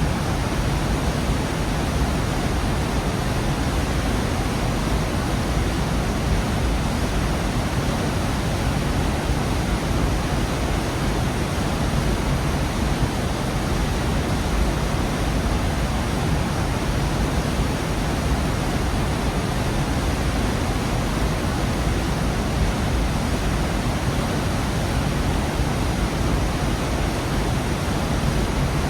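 Waterfall in a rocky gorge: a steady, dense rush of falling water with a deep low rumble, unchanging throughout.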